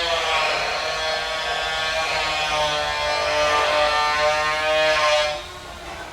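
Handheld hair dryer running with a steady motor whine and rush of air, its pitch drifting slightly, then switched off about five seconds in.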